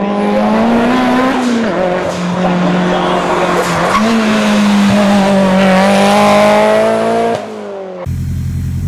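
Nissan S13 180SX race car's engine revving hard, its pitch climbing and dropping several times with throttle and gear changes. Near the end it cuts off abruptly and gives way to a low, steady idle.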